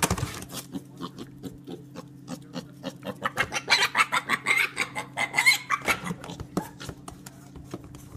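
An animal making high-pitched calls for about two seconds in the middle, over a run of quick, irregular clicks and a steady low hum.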